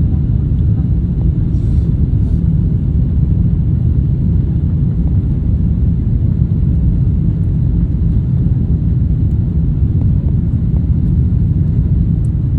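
Steady deep rumble of jet airliners landing, with no clear engine whine above it.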